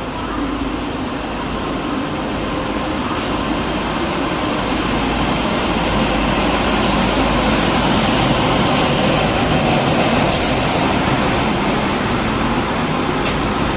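A train running past on the rails, a steady rumble that slowly grows louder and eases slightly near the end, with two short high hisses.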